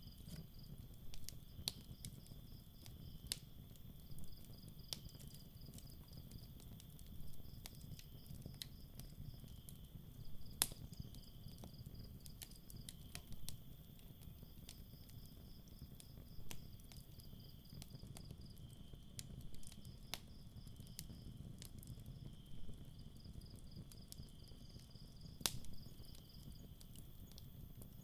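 Campfire crackling with scattered sharp pops over a low rumble, while crickets chirp in repeated pulsing trills.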